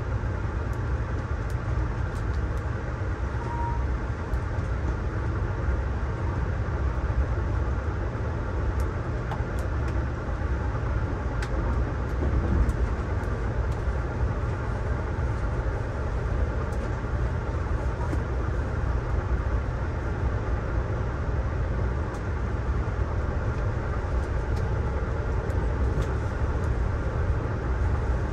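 Budd Amfleet passenger coach rolling at speed, heard inside the cabin: a steady low rumble of wheels on track, with faint scattered ticks.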